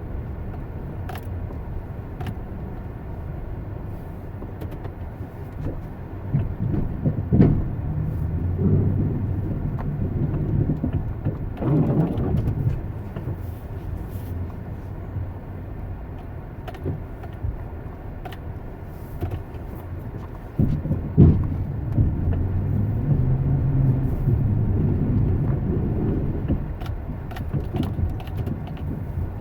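Low rumble of a motor vehicle, swelling louder twice, with a few faint clicks.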